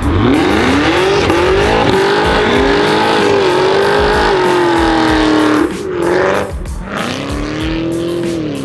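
A car's engine revved hard as it pulls away: the revs climb quickly, then hold high and waver for about five seconds. About two-thirds of the way through the throttle lifts briefly, then the engine revs back up near the end.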